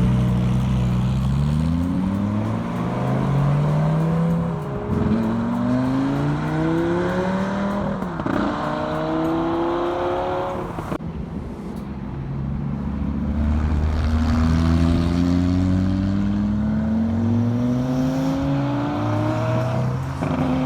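A sports car's engine accelerating hard through the gears. The pitch rises steadily and drops sharply at each of several upshifts.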